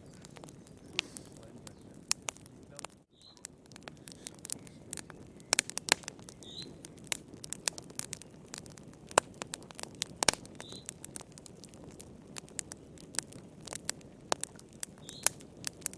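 Wood campfire crackling: irregular sharp pops and snaps over the steady low hiss of burning. A short high chirp repeats roughly every four seconds.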